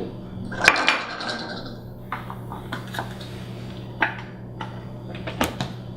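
Light knocks and clicks of kitchen things being handled, a handful of separate strikes with the loudest cluster about a second in, over a steady low hum.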